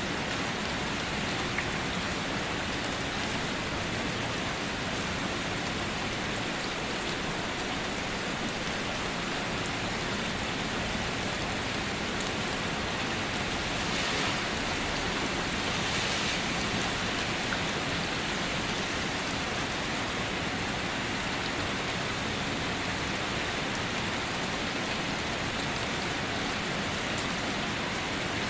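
Steady rain falling and pattering on surfaces, with scattered drop ticks and a slight swell in intensity about halfway through.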